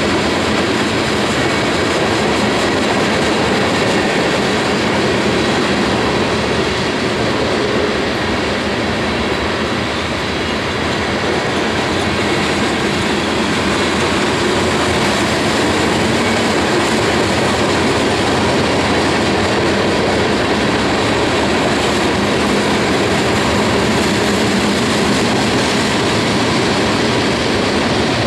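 Loaded coal hopper cars of a freight train rolling past, a steady, unbroken noise of steel wheels running on the rails.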